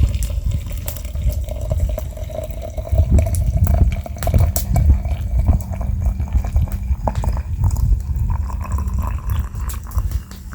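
Water being poured into a vessel, a faint hollow tone slowly rising in pitch as it fills, with scattered sharp clicks.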